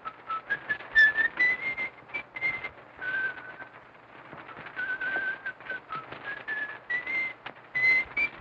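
A person whistling a slow tune, held notes stepping up and down, over the steady crackle and clicks of an old film soundtrack.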